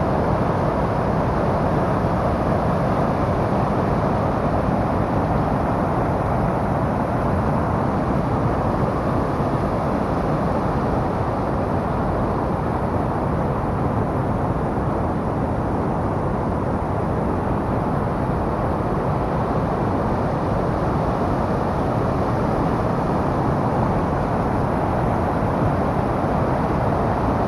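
Tama River in typhoon flood, rushing past in a steady, unbroken roar of water.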